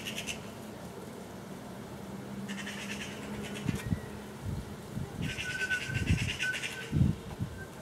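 Eurasian magpies giving their rapid rattling chatter in three short bursts, a few seconds apart. Several low thumps come in the second half, the loudest near the end.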